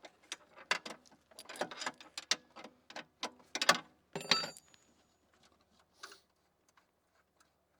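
Metal hand tools clicking and knocking against metal, a wrench being worked on a stubborn bolt: a quick run of sharp clicks, with a short metallic ring about four seconds in, then only a few faint ticks.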